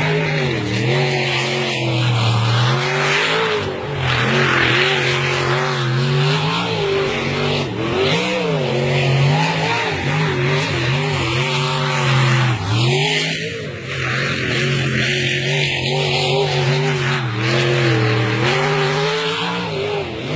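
Racing powerboat's engine running hard at speed, its pitch dipping and recovering several times as the throttle eases and picks up again, over a loud rush of wind and water.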